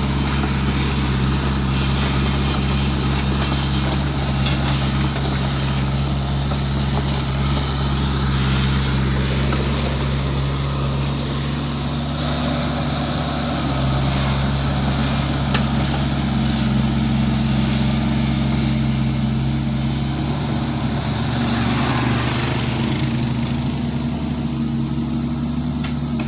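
Hydraulic excavator's diesel engine running steadily while it digs, with a brief rise of rougher, noisier sound about three-quarters of the way through.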